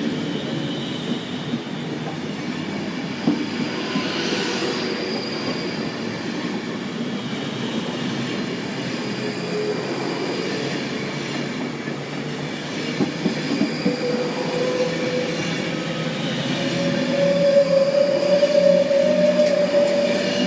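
An Avanti West Coast passenger train running along the rails with a steady rumble of wheels. Over the last several seconds a tone rises slowly in pitch and the sound grows louder.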